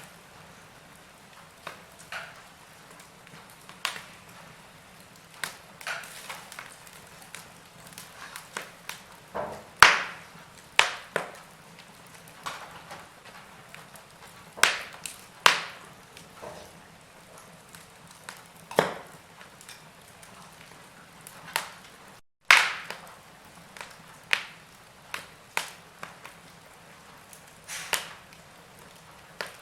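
Log fire crackling: irregular sharp pops and snaps of burning wood over a faint low hiss, with the loudest pops about ten seconds in and about two-thirds of the way through. There is a split-second dropout in the sound just before that later pop.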